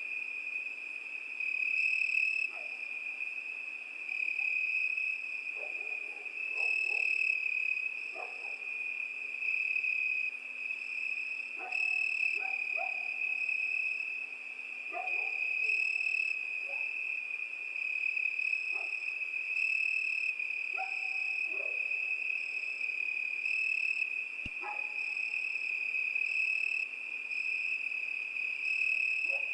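Crickets chirping in a steady high trill that swells and eases every couple of seconds, with short lower-pitched calls from another animal scattered through it.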